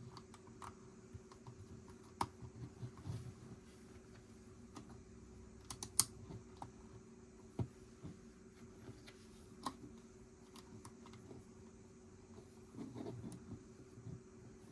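Plastic Lego pieces being handled and snapped together: scattered sharp clicks with a quick run of clicks about six seconds in, and some light rattling of loose parts.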